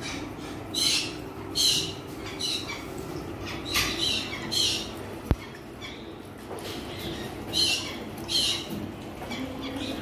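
Caged birds squawking, harsh calls repeating about once a second, with one sharp click near the middle over a low steady hum.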